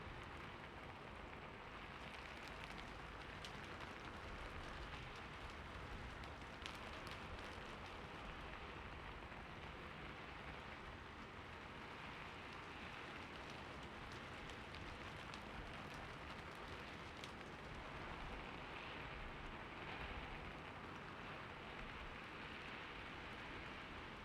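Steady light rain falling on a surface, an even hiss with scattered individual drops ticking through it.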